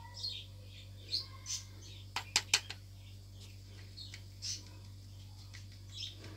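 Short high bird chirps here and there over a steady low hum, with three quick sharp taps about two seconds in from the plastic sieve knocking against the glass bowl while flour is sifted.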